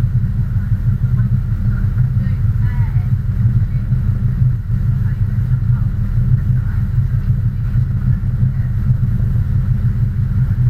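Steady low engine rumble, with faint voices in the background.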